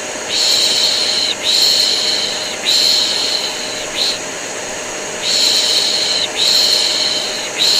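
A voice shushing in long 'shh' strokes of about a second each, one after another with a short pause midway, over the steady whir of a vacuum cleaner. This is a white-noise mix for soothing a colicky baby.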